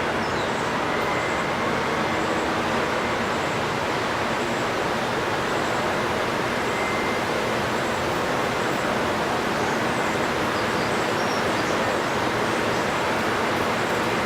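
Steady rushing of water, a continuous even noise, with faint bird chirps now and then.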